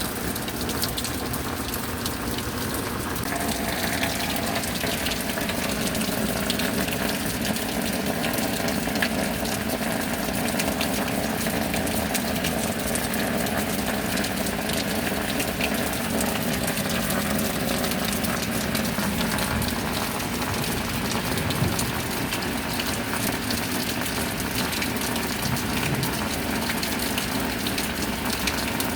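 Steady rain with water pouring and gushing, a little fuller from a few seconds in.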